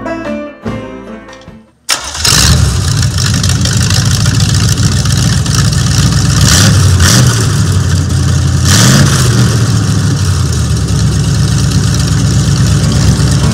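Small-block Chevy 350 V8 on an engine stand starting abruptly about two seconds in, then running loud with a few quick revs on the throttle, one of them a clear rising rev near the middle.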